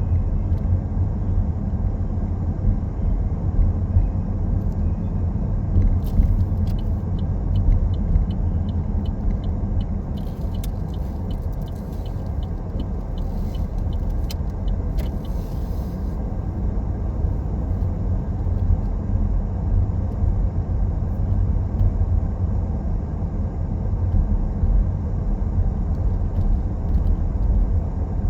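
Car driving along, with a steady low rumble of road and engine noise. For about ten seconds in the middle, a run of quick, evenly spaced ticks sounds over it.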